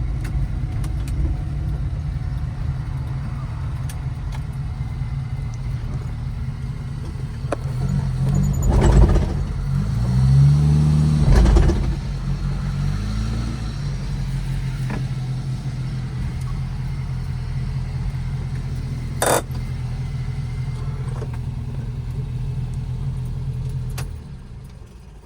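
Volvo B18 1.8-litre four-cylinder engine idling, revved up briefly a couple of times. A single sharp pop comes about three-quarters of the way through, a backfire, and the engine is switched off near the end.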